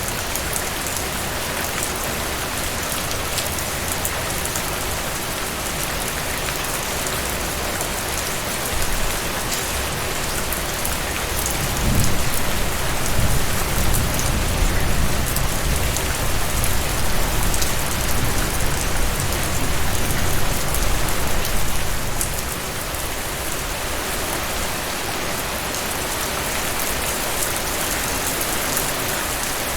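Heavy rain falling steadily, with the sharp ticks of drops striking a surface. About twelve seconds in, a low rumble of thunder rises and rolls on for roughly ten seconds before fading.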